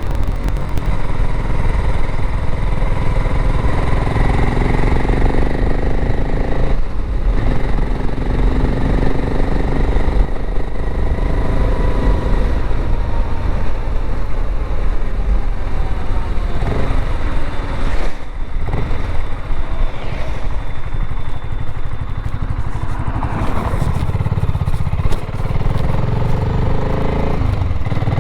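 BSA Gold Star 650's single-cylinder engine running on the road, its pitch rising and falling as the rider accelerates and changes gear, with brief drops around 7 and 18 seconds in. Heavy wind rumble on the bike-mounted microphone.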